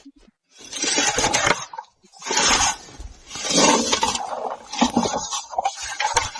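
Lingonberry shrubs rustling as berries are stripped from them: about four separate bursts of dry leaf-and-twig rustling, each about a second long, with short pauses between.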